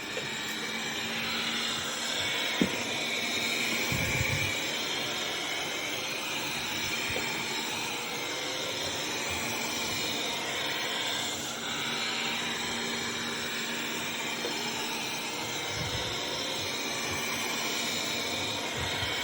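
Laresar Mars01 robot vacuum cleaner running: a steady whirring hiss from its suction fan over a low hum. There is one sharp click a couple of seconds in and a few soft knocks.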